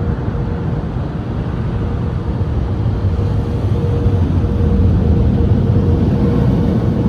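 AVW car wash dryer blowers blasting air over the car, heard from inside the cabin as a steady low rush with a faint steady hum. It grows a little louder about two-thirds of the way through.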